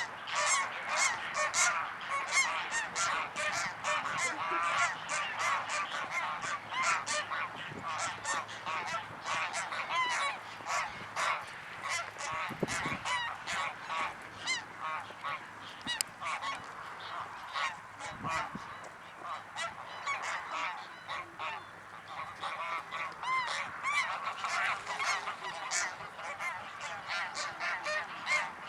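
A flock of greylag geese honking and cackling, many short calls overlapping without pause.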